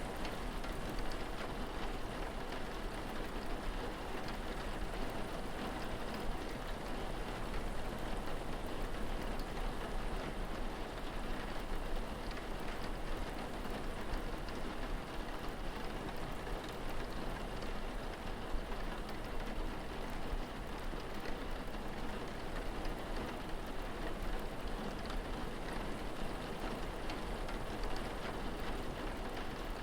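Steady rain falling on surfaces, an even patter of drops without letting up.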